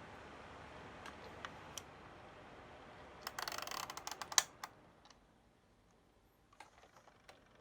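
A faint background hiss with scattered light clicks, and a quick run of clicks and taps about three and a half seconds in, one of them sharper; after it, only a few isolated clicks.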